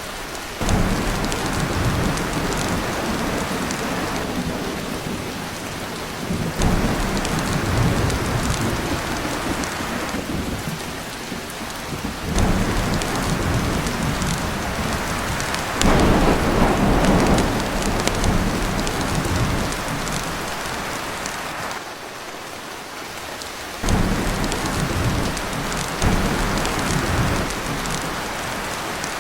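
Heavy rain pouring steadily onto a tin roof, with thunder rolling in again and again every few seconds, each roll swelling up and then fading back into the rain.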